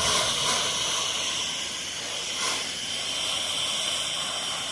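Pressure washer spray hissing steadily from the wand's fan tip while the house is being soft washed, with small swells near the start and about two and a half seconds in.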